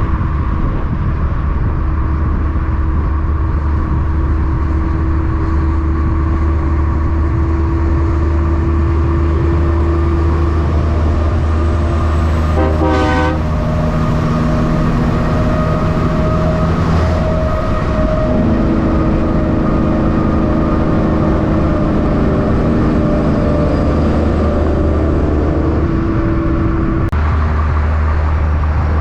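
Big-rig diesel truck engines running loud and steady in traffic, their engine pitch rising and falling in the second half. A short horn blast comes about thirteen seconds in.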